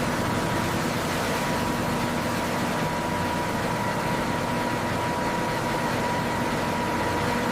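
Machinery running steadily: an even mechanical hiss and hum with a faint steady whine, starting and stopping abruptly.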